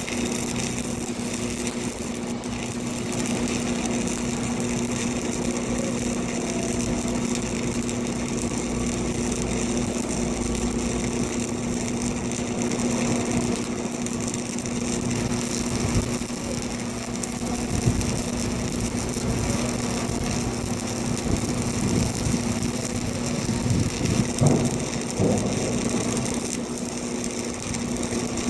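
Arc welding: the arc crackles and hisses steadily over a constant hum from the welding machine, with a few louder pops now and then.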